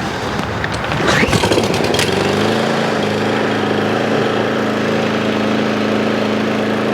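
Craftsman M270 lawn mower's 159cc engine starting: it catches and picks up speed in the first two seconds, then runs at a steady speed. This is the repaired engine starting again after the fix.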